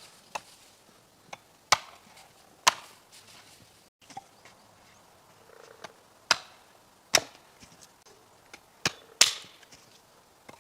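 Wood being chopped: a series of sharp, separate strikes at uneven intervals, about six of them loud and several fainter.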